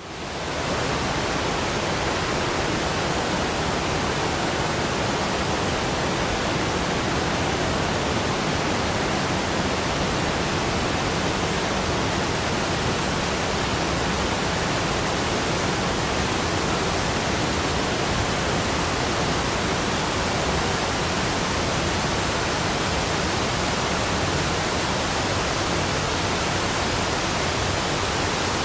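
Steady rushing of a waterfall, an unbroken wash of falling water that fades in at the very start.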